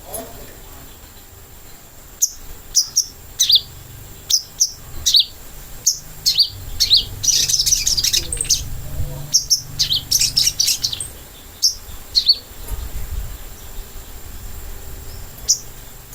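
Sogok ontong (little spiderhunter) calling: a run of short, high, sharp chirps, thickening into two dense chattering stretches around the middle and thinning out near the end.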